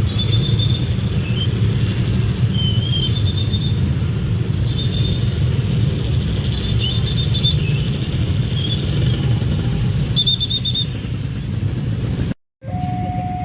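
A train passing close by with a steady heavy rumble of wheels on rail, and short high-pitched tones every couple of seconds. The sound cuts out about 12 seconds in, and a steady electronic two-note tone begins.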